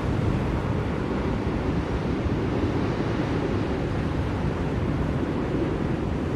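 Blizzard wind blowing steadily: a deep, even rushing noise with slight swells, with no gusts or other sounds standing out.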